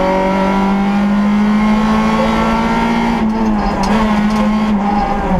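Peugeot 106 S16's 1.6-litre 16-valve four-cylinder rally engine at high revs under load, heard from inside the cabin. The pitch climbs slowly for about three seconds, dips briefly as the throttle eases, then holds. A few sharp clicks come in the second half.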